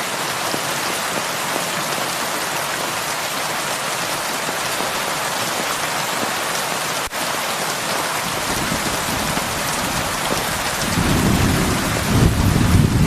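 Heavy rain falling steadily, with one very short dropout a little past the middle. In the second half, thunder rolls in as a low rumble that grows louder toward the end.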